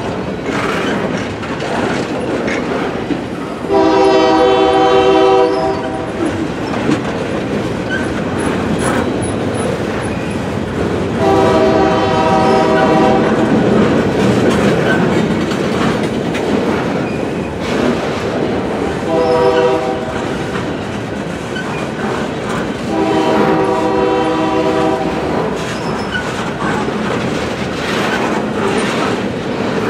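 Freight train cars rolling past with a steady rumble and clatter of wheels on the rails. Over it a locomotive horn sounds the grade-crossing signal: two long blasts, a short one, then a long one.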